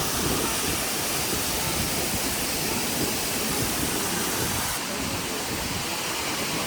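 Steady rushing of a waterfall, falling water making an even, unbroken noise.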